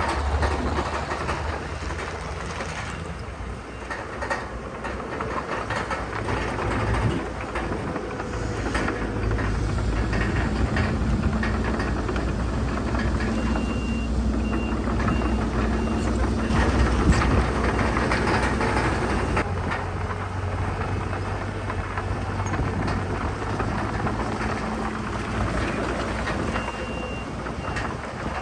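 Diesel engines of heavy earthmoving machinery running at work, with clanking throughout. A reversing alarm beeps in two short runs, one about halfway through and one near the end.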